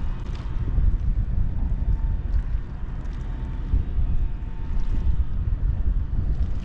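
Low, gusting rumble of wind buffeting the microphone around a large ferry, with a faint steady hum underneath.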